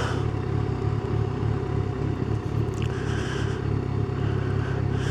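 Yamaha FZ1 motorcycle's inline-four engine running steadily at constant revs, with no change in pitch.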